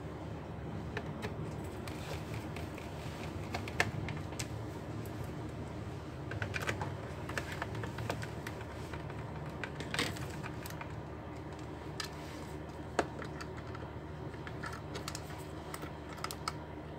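Irregular small clicks and taps of hands and a screwdriver working on a laptop's plastic case during reassembly, with a few sharper clicks, over a steady low hum.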